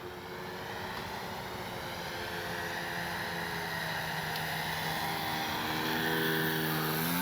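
Electric RC model plane in flight: its brushless outrunner motor and 13 x 6.5 propeller make a steady pitched buzz that grows steadily louder.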